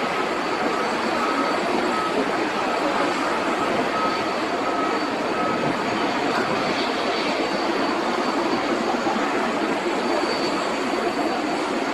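Boeing 777 freighter's twin GE90 turbofan engines running, a loud, steady jet roar with a faint high whine.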